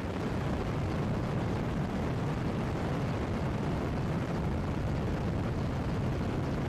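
Mi-8 helicopter running: a steady, dense low rumble from its turbine engines and rotor.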